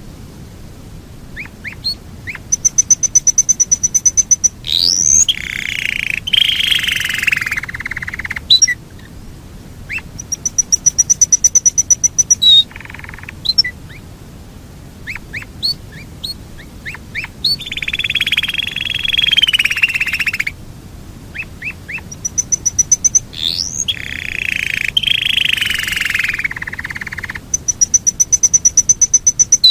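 Yorkshire canary singing long rolled trills. Bursts of very fast repeated high notes, each about two seconds long, alternate with louder, lower warbling phrases.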